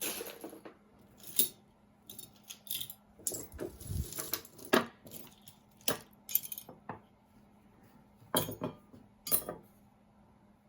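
Costume jewelry being rummaged through and handled: irregular clinks, jangles and small clacks of metal and plastic pieces knocking together, several of them sharper and louder.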